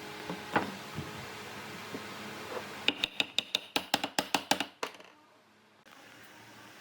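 Rapid tapping on wood in a workshop: a single sharp knock, then a quick run of about a dozen sharp knocks, several a second, before the sound cuts out abruptly.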